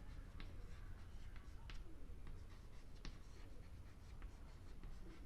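Faint writing sounds: short scratches and taps of a pen being used to write or mark, scattered unevenly over a low steady hum.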